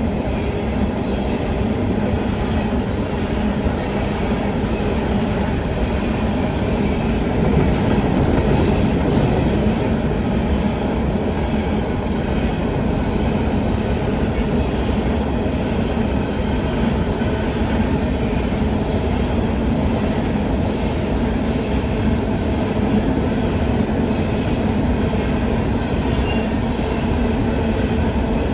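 Train rolling past with a steady, loud rumble of wheels on the rails that holds even throughout.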